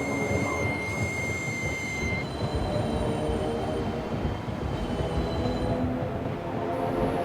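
ED4M electric train running, heard from inside the carriage: a steady rumble of wheels and running gear, with thin high squealing tones from the wheels on the rails that fade out about two seconds in.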